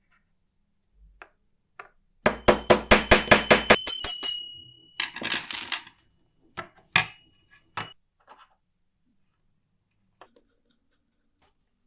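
A restored 1949 Olympia typewriter's mechanism: a quick run of about ten sharp metallic clacks, then a clear metallic ring lasting about a second. A second shorter ring comes about seven seconds in, among a few scattered small clicks.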